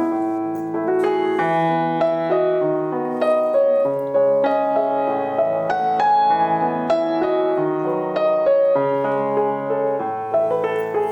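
Soft background piano music, notes struck at a gentle, even pace and left to ring.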